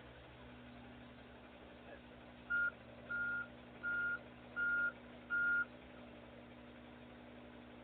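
Truck's reversing alarm beeping five times, a little under a second apart, over a steady low hum.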